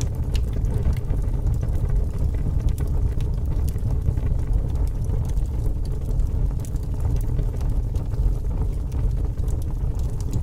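Fire crackling: a steady low rumble of flames with frequent irregular sharp pops and crackles.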